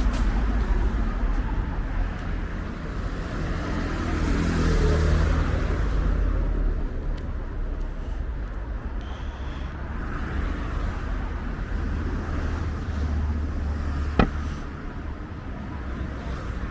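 Street traffic: cars running past with a steady low rumble that swells a few seconds in, and a single sharp bang about fourteen seconds in.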